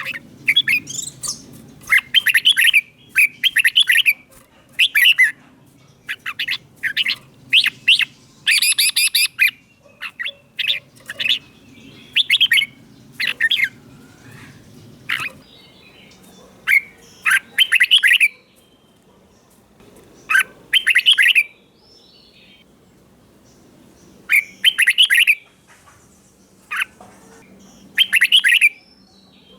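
Red-whiskered bulbul singing short, clear song phrases, one every second or so, with a pause of a few seconds past the middle.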